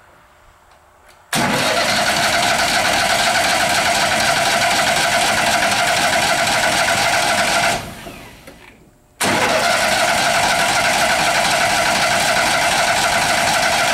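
Insulation blowing machine's blower switched on with a sudden loud, steady whirring rush, cut off about halfway through and winding down over a second, then switched on again and running steadily.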